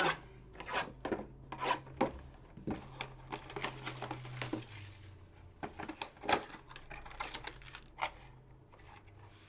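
Trading-card packs being opened and handled: wrappers tearing and crinkling and cards being shuffled, making irregular clicks and rustles over a faint low hum.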